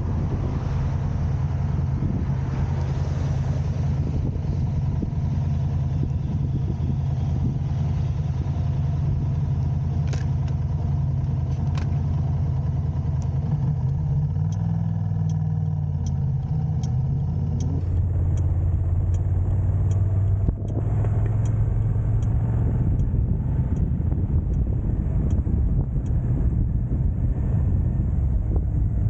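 Car driving in city traffic: a steady engine and road hum whose pitch dips and then rises again about halfway through, as the car slows and pulls away. A run of faint, evenly spaced ticks sounds through the middle stretch.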